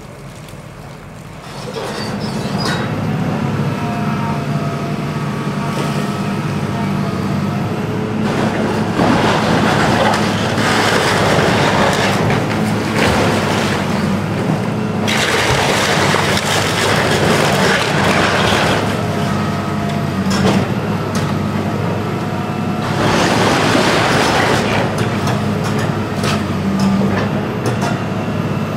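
A heavy demolition machine's diesel engine rises about two seconds in and runs steadily under load, with long stretches of crunching and clattering as it tears into the building and debris falls.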